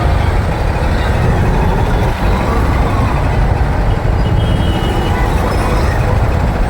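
Road traffic heard from a moving motorbike: a steady, loud low rumble of engine and wind on the microphone. A faint short high tone comes about four and a half seconds in.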